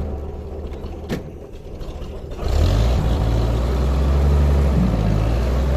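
A motor engine running with a steady low hum; it grows louder about two and a half seconds in and then holds steady.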